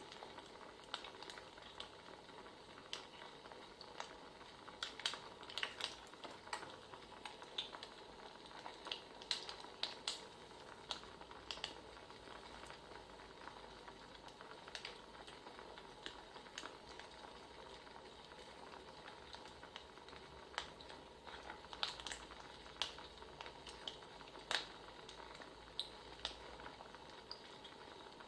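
Wood fire crackling: a soft steady hiss with irregular sharp pops and snaps.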